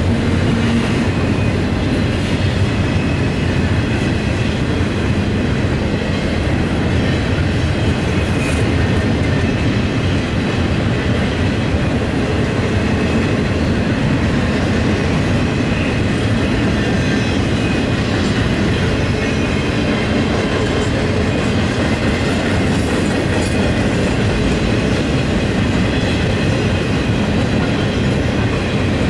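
Norfolk Southern intermodal freight train rolling past: a steady, unbroken rumble of steel wheels on the rails with the clickety-clack of the wheels over rail joints.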